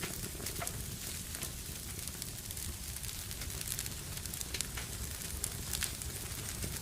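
Fire in a fireplace crackling steadily, with irregular sharp pops and snaps over a low, even rustle of the flames.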